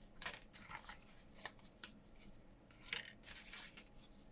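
Paper and card pages being handled and shifted: a series of short, soft rustles and scrapes.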